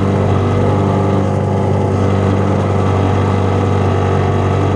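1965 Evinrude Lightwin two-stroke twin outboard motor running steadily at full throttle, pushing a small boat along.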